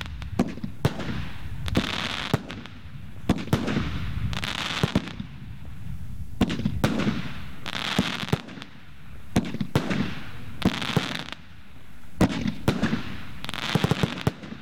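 Fireworks display in full barrage: many sharp bangs going off one after another, with a hissing rush recurring about every second and a half.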